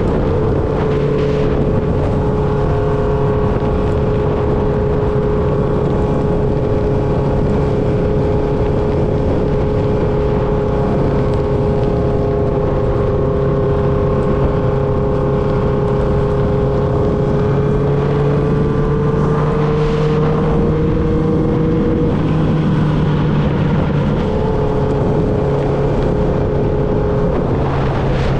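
1995 Honda CB750 Nighthawk's air-cooled inline-four through a Vance & Hines 4-into-1 exhaust, running at a steady cruise. The pitch climbs slightly about eighteen seconds in, breaks off briefly, then steady running resumes.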